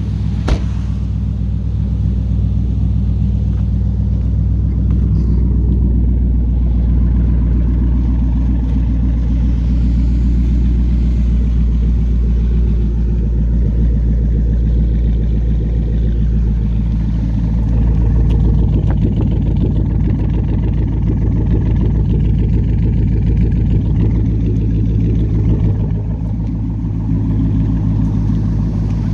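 2010 Dodge Charger SRT8's 6.1-litre Hemi V8 idling steadily and loud through a modified exhaust, with a deep, low note.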